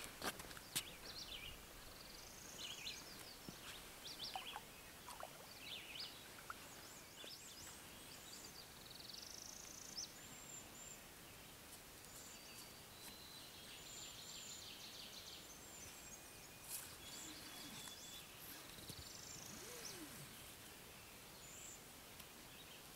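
Faint birdsong: several birds chirping and whistling in short, high phrases over quiet lakeside ambience, with a couple of sharp clicks right at the start.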